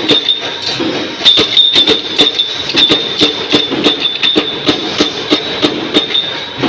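Mechanical punch press stamping wing-shaped washers from 2.3 mm-thick stock: a sharp metallic clank about three times a second over a steady high whine and machine rumble.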